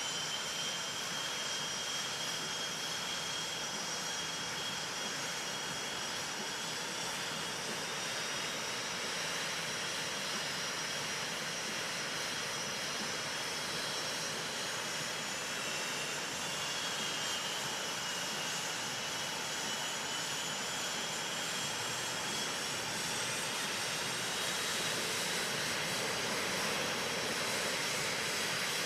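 Jet engines of a US Navy Blue Angels F/A-18 Hornet running steadily: an even rushing noise with several high turbine whines that drift slowly up and down in pitch.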